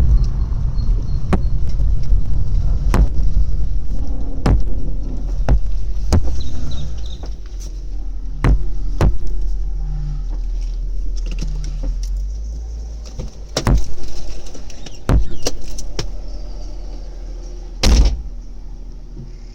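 BMW 323Ci's straight-six engine heard from inside the cabin while driving: a low rumble with scattered knocks, getting gradually quieter, with one sharp knock near the end.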